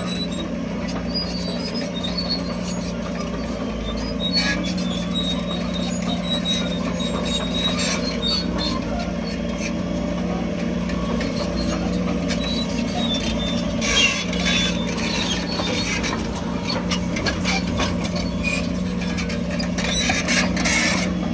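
Diesel engine of heavy earthmoving machinery running steadily, with metallic squeaks and clanks throughout and a louder clatter about two-thirds of the way in and again near the end.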